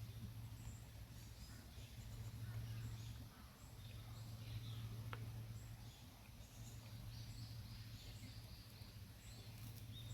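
Faint outdoor ambience: scattered small bird chirps high over a steady low hum, with a single faint click about halfway through.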